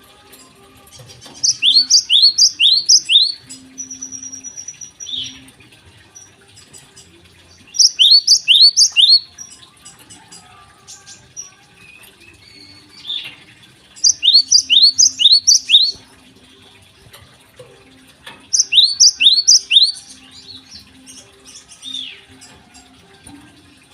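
A Java sparrow (gelatik) singing in loud bursts of quick, sharp, repeated high notes, four bouts each lasting a second or two, with fainter single calls in between. This is the lively singing that keepers call gacor.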